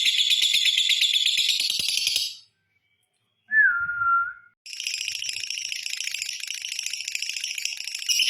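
Lovebird's long, fast, high-pitched chattering trill (ngekek), breaking off about two seconds in and resuming about five seconds in. In the gap, a single short whistled note, falling slightly.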